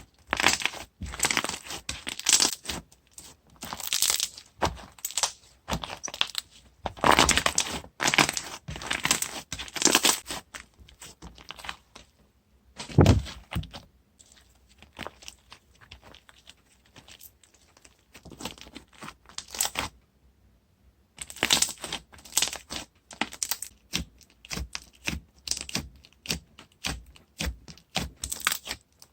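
Toffee slime worked by hand, giving bursts of sticky crackles, clicks and tearing pops with short pauses between them, and one heavier knock about halfway through.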